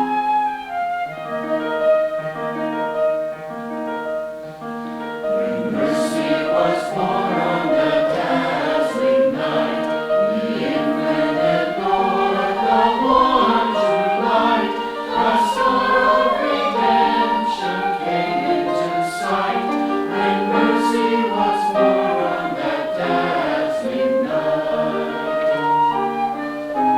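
Choir singing with instrumental accompaniment; the sound fills out about five seconds in, where the voices come in fully.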